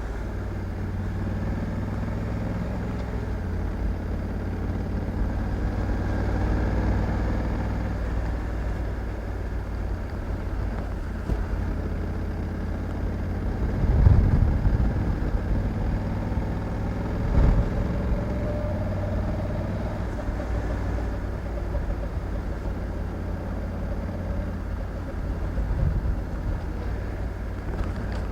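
Honda Africa Twin 1100 DCT's parallel-twin engine running steadily under way, mixed with riding noise. A few short, louder low surges come about halfway through, a few seconds later, and near the end.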